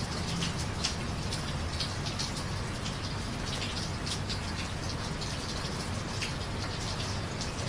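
Steady rain falling on a street, with many close drops pattering and splashing over a low, steady rumble underneath.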